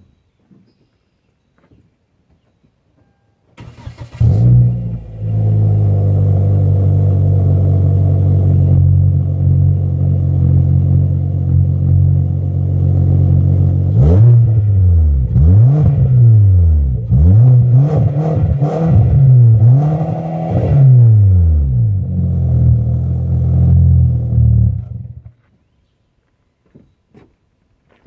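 Car exhaust fitted with an aftermarket eBay muffler in place of the stock one. The engine starts about four seconds in and idles, then is revved in a series of quick blips, idles again, and is switched off near the end.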